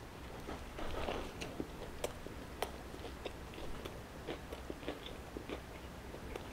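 A person bites into a Burger King Whopper and chews it close to the microphone: a soft bite about a second in, then steady wet chewing with many small mouth clicks and smacks.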